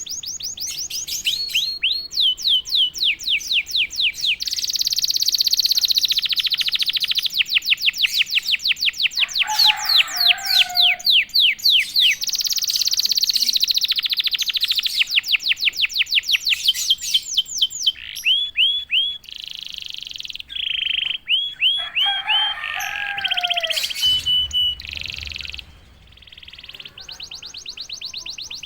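Domestic canary singing a long, loud song of rapid trills: fast runs of repeated, sharply falling whistled notes alternating with buzzy rolls, with a few short pauses.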